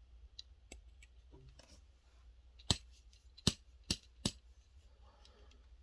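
Sharp little clicks of fingers prying at the hood of a die-cast model car, a few faint ones and then four louder clicks in the middle; the hood stays shut.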